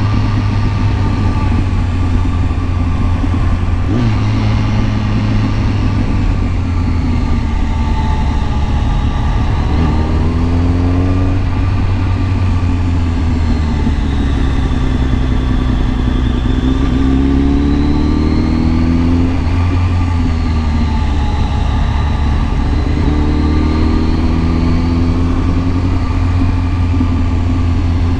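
Kawasaki ZX-10R sport bike's inline-four engine running steadily under way, with a few short rises and falls in pitch as the throttle changes.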